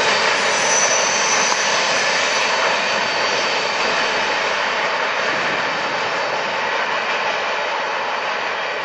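Freight train cars rolling along the rails: a steady rolling noise that slowly fades as the tail end of the train moves away.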